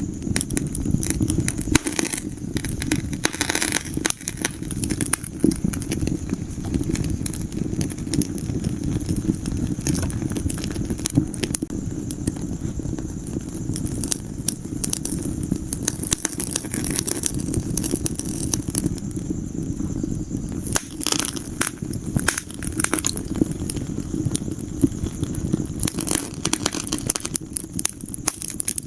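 Wood fire in a fireplace crackling, with frequent irregular sharp pops and snaps over a steady low rumble of the burning flames.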